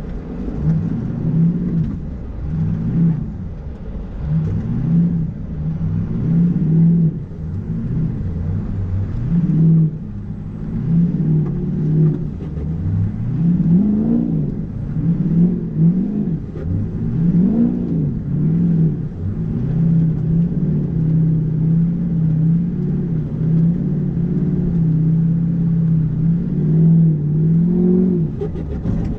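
Ford 6.0 Power Stroke V8 turbo-diesel engine pulling a truck along a back road, its revs rising and falling again and again as the throttle is worked, then holding steady for the last several seconds.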